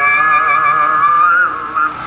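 Loud vehicle siren with a fast, wavering warble, dipping briefly near the end.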